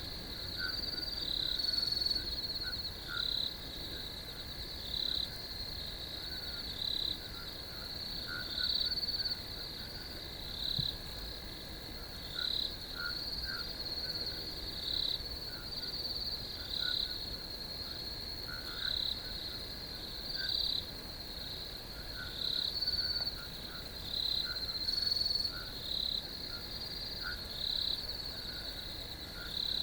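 Crickets chirping: a steady high trill with a louder chirp about once a second, and fainter short calls lower in pitch scattered through it.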